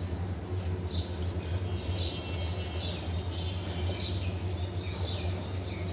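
A bird chirping repeatedly, short falling notes about once a second, over a steady low hum.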